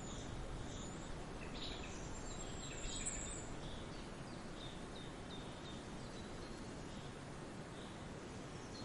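Forest birds chirping and calling in short scattered notes, busiest in the first few seconds, with a brief high whistle about three seconds in, over a steady even background hiss.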